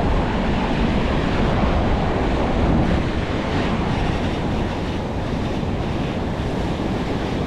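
Fast, high river water rushing steadily, with wind buffeting the microphone.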